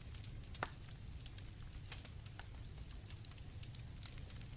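Campfire crackling: scattered small pops and snaps, one a little louder about half a second in, over a soft low rumble, with night crickets faintly in the background.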